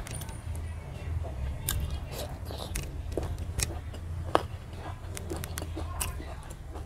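Close-up chewing of a mouthful of rice and chicken curry: wet mouth smacks and clicks several times a second, with a steady low hum underneath.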